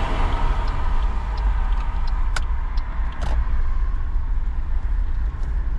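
Inside a car driving slowly in heavy rain: a steady low rumble with a hiss over it, and two sharp clicks a little under a second apart near the middle.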